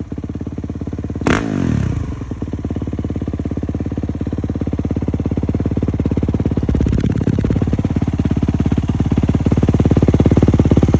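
Kawasaki KX450's single-cylinder four-stroke motocross engine running through an FMF Titanium 4.1 muffler and Mega Bomb header, mostly at a steady idle. A quick throttle blip comes about a second in, with the revs falling straight back, and the engine gets somewhat louder near the end.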